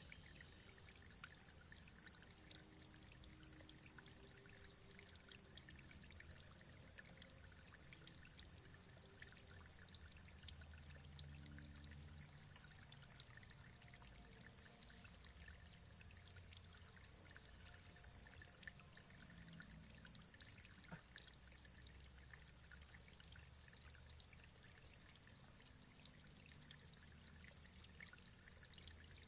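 Faint, steady running water, with scattered small ticks.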